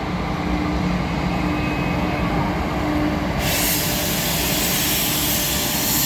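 Passenger train pulling away: a steady low rumble with a faint hum, joined suddenly about three and a half seconds in by a loud rushing hiss.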